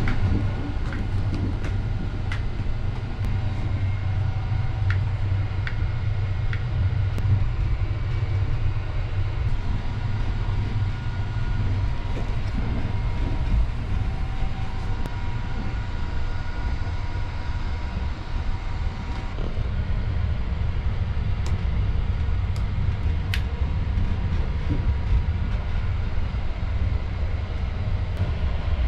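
Steady low rumble of the Sunrise Seto sleeper train, a 285-series electric multiple unit, running, heard from inside a closed compartment, with a few faint ticks and rattles.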